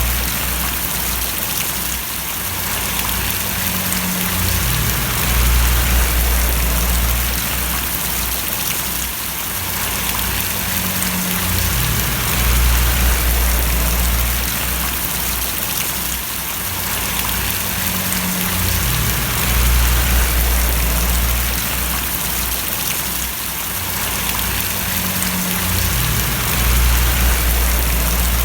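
Steady rain falling, an even hiss of many drops, with a low rumble underneath that swells and fades about every seven seconds.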